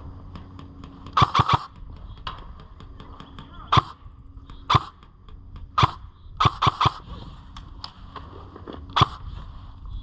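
Airsoft guns firing: sharp pops, some single and some in quick runs of three or four, with fainter ticks in between.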